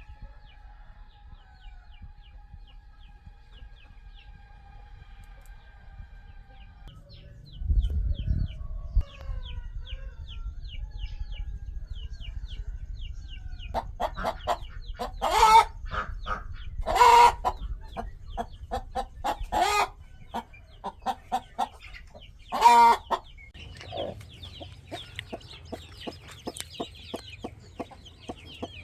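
Chicks peeping continuously in rapid short falling notes, with adult chickens clucking and giving four loud calls in the second half. A brief low rumble comes about eight seconds in.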